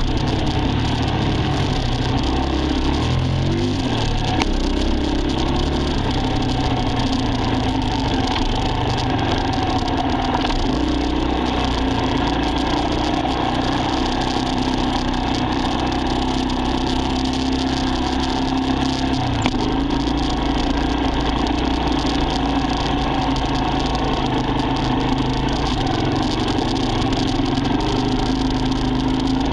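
Dirt bike engine running steadily, its pitch shifting a few times.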